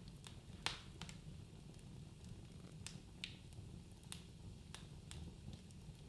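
Wood fire crackling in a fireplace: irregular sharp pops and snaps over a low steady rumble of burning, with the loudest pop under a second in.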